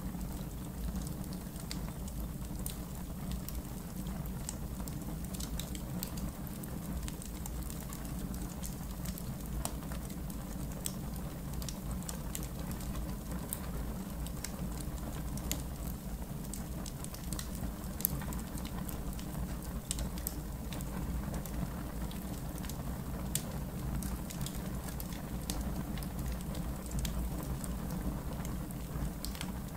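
Campfire crackling, with frequent sharp pops and snaps over a low, steady rumble, and one louder pop about eighteen seconds in.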